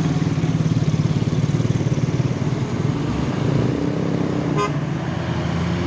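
Heavy truck's diesel engine labouring steadily under load up a steep climb. A brief horn beep sounds near the end.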